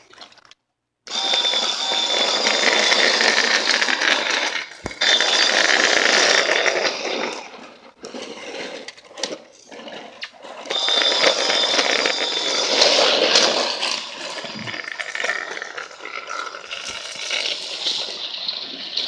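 Battery-powered toy train running on plastic track: a busy motor and gear whir with wheel rattle and a thin high whine, easing off briefly partway through and then picking up again.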